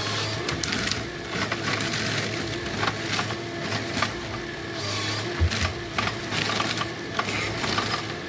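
Rottne H11D forestry harvester with a LogMax 5000D head at work: its diesel engine and hydraulics run with a steady hum, under repeated sharp cracks and clicks.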